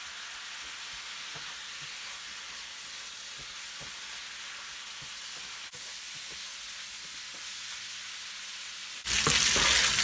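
Cubed seasoned chicken breast sizzling gently in a pan on low heat as it cooks in the water it releases, with faint scattered pops. About nine seconds in the sizzle suddenly gets louder.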